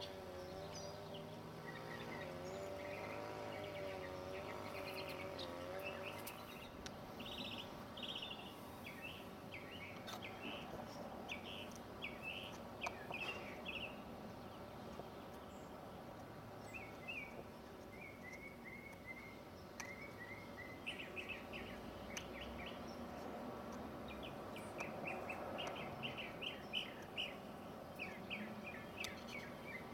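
Songbirds chirping in garden trees: scattered short high chirps and quick strings of notes throughout. A wavering insect buzz is heard in the first six seconds, all over steady background noise.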